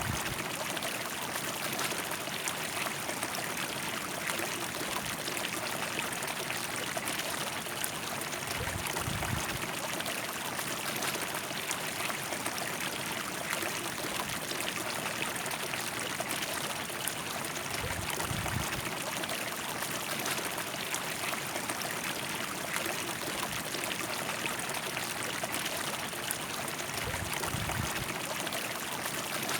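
River water flowing over rocks in a steady, unbroken rush, with a brief low rumble about every nine seconds.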